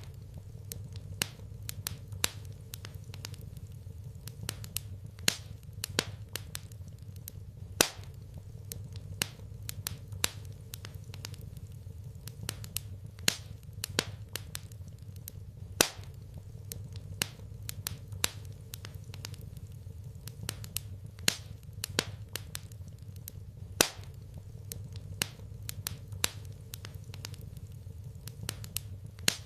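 Wood fire burning in a fireplace, crackling with irregular sharp pops, a louder snap every second or two among smaller ticks, over a steady low hum.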